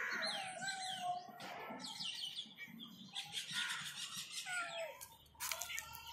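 Several birds chirping and calling, many short quick chirps overlapping one another. There is a brief knock a little after five seconds in.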